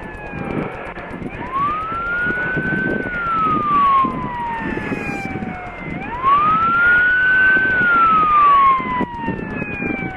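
Police car siren in slow wail mode: a tone that sweeps up, then falls slowly, repeating roughly every four and a half seconds, over a low rumble of vehicle and outdoor noise.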